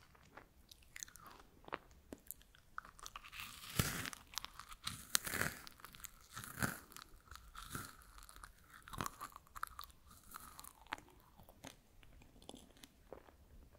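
Freeze-dried strawberries being bitten and chewed, close-miked: crisp, brittle crunches, a dense run of loud ones about four to seven seconds in, thinning to scattered smaller crunches and clicks as the chewing goes on.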